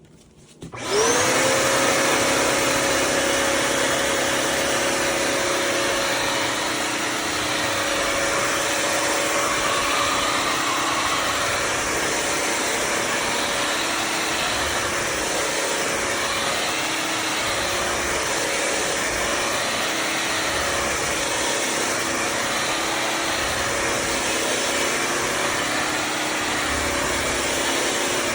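Bissell CrossWave HydroSteam wet-dry vacuum switched on about a second in, its motor spinning up with a rising whine and then running steadily.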